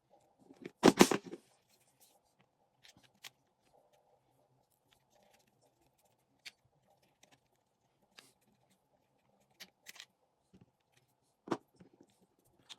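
Handling of a fishing reel and its parts during repair: a burst of loud clattering about a second in, then scattered small clicks and taps, with one sharper knock near the end.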